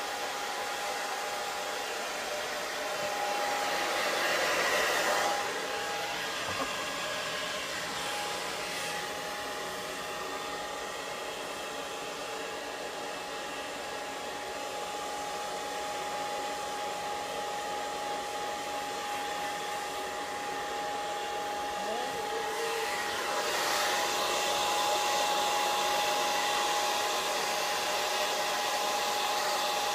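Hair dryer running steadily: a rush of air with a constant whine. It swells louder briefly about four to five seconds in, and again from about twenty-three seconds on.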